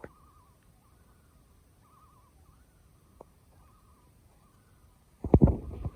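Faint, distant bird calls: a wavering trill repeated several times. A few loud knocks come near the end.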